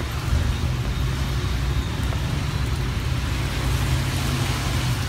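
Heavy rain hissing steadily on the wet street and sidewalk, under a continuous low rumble of road traffic.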